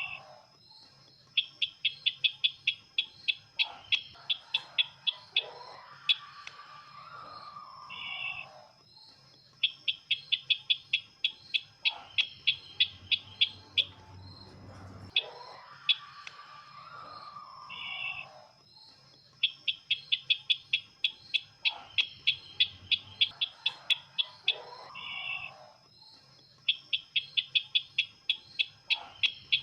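Looped recording of the sisintar ladang bird's call, played as a trapping lure. A fast run of sharp chirps, about six a second for a few seconds, alternates with a lower warbling call, and the cycle repeats four times. A faint steady high whine and a low hum run underneath.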